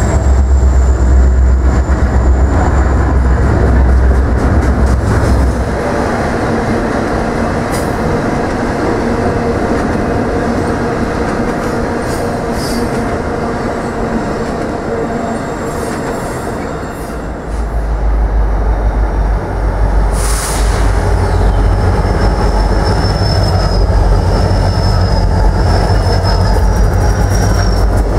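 Union Pacific double-stack container train rolling past at close range: a deep diesel-locomotive rumble for the first five seconds or so, then the steady rumble and clatter of the container cars. A deeper rumble returns about two-thirds of the way through, and faint high wheel squeals come near the end.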